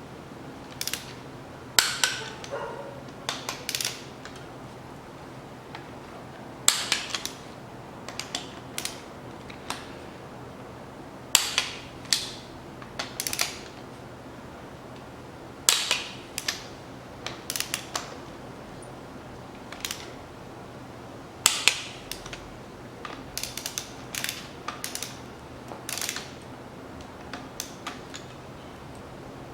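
Click-type torque wrench ratcheting cylinder head bolts down to torque. Short runs of ratchet clicks, each with a sharp loud click, come about every five seconds as one bolt after another is tightened.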